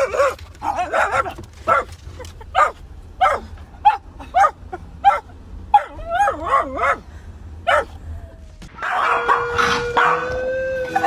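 A dog giving a string of short, wavering howl-like yips, about one or two a second, with a longer warbling call about six seconds in. Music starts near the end.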